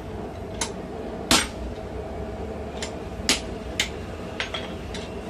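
Blacksmith's hammer striking hot steel on an anvil while forging a tong jaw: about seven irregularly spaced blows, two of them much heavier, about a second in and just past three seconds.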